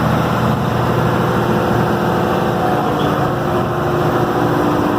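Boat's engine running steadily, a constant drone with a steady hum on top.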